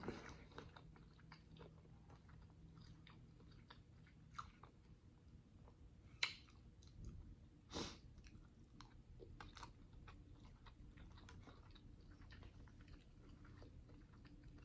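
Faint, close-up chewing and small wet mouth clicks of someone eating a soft forkful of shrimp masala and rice. A couple of sharper clicks come about six and eight seconds in.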